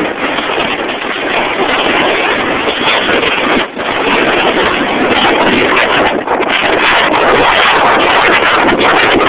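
Strong gusting wind buffeting the microphone: a loud, steady rushing, with a couple of brief lulls.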